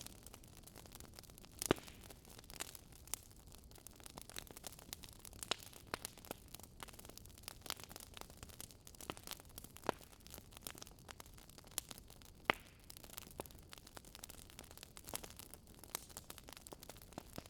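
Wood fire crackling: irregular sharp pops and snaps of burning logs over a faint hiss, a louder snap about two seconds in and another about twelve seconds in.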